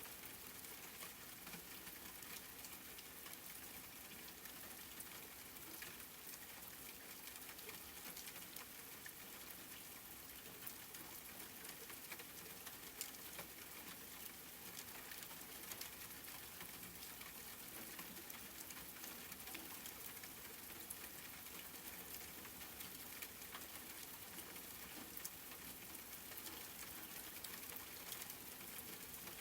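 Steady, soft rainfall: an even hiss with many small scattered drop ticks.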